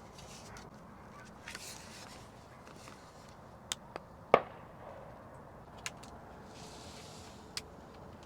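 A few sharp, separate clicks and knocks, the loudest a little past halfway, over a faint steady background.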